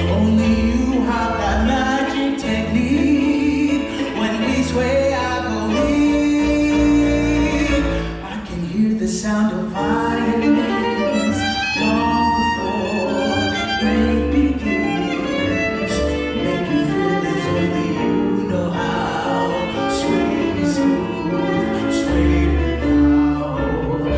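Live band music: a violin playing the melody over piano and deep bass notes, with a singer's voice.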